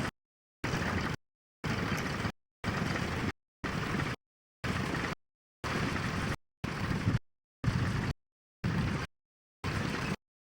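Tractor engine rumble mixed with wind on the microphone, chopped by dropouts: the sound cuts out completely about once a second and comes back after a short gap of dead silence.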